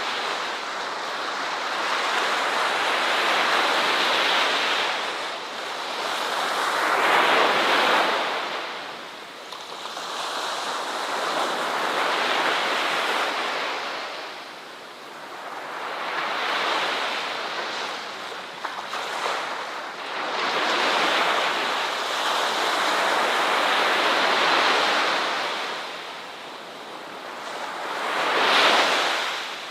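Ocean surf washing onto a beach, the wave noise rising and falling about every five seconds.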